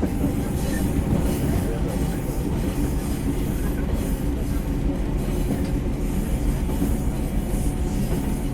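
Running sound inside the JR KuMoHa 123-1 single-car electric train, heard just behind the driver's cab: a steady rumble of wheels on rail and running gear as the car travels.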